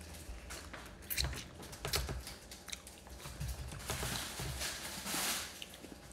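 Close-up eating sounds: biting, chewing and tearing meat from fried chicken, with small scattered clicks and crackles. A brief hiss comes about five seconds in.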